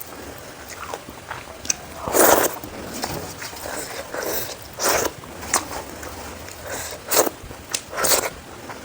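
A person eating: chewing and wet mouth sounds, with scattered small clicks and a few louder short smacks or slurps.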